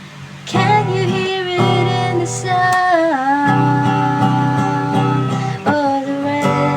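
Song with strummed acoustic guitar and a woman's voice singing long notes that slide between pitches.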